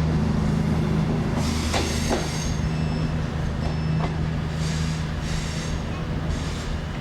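A train at a station platform: a steady low hum from its running gear, with clicks and a few short high squeals from the wheels on the rails, slowly getting quieter.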